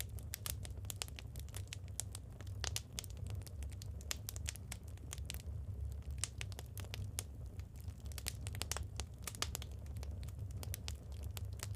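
Wood fire burning, with a dense irregular run of sharp crackles and pops from the burning logs over a steady low rumble.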